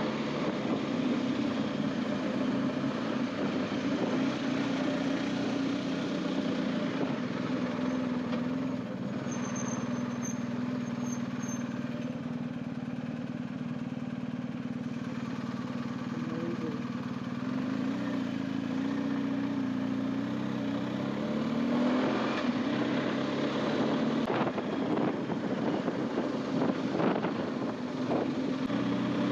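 BMW R1250GS boxer-twin engine running while the motorcycle is ridden, its pitch dropping and rising a few times with the throttle, over a steady rush of wind and road noise.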